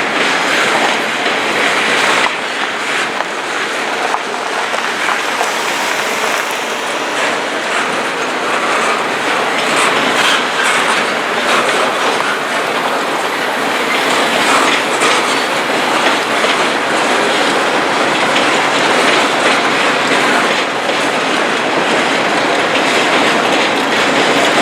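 A train rolling steadily past close by, its steel wheels clicking over the rail joints.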